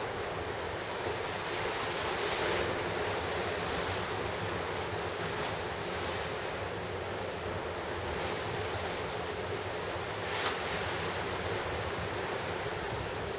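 Ocean surf crashing and washing ashore in a steady rush of noise, swelling about two and a half seconds in, with one sharper wave break about ten seconds in.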